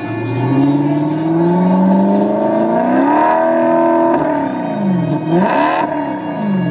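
Maserati GranCabrio's 4.7-litre V8 revved hard while standing: the engine speed climbs steadily for about three seconds, holds briefly, falls back, then a quick sharp blip near the end before it drops again.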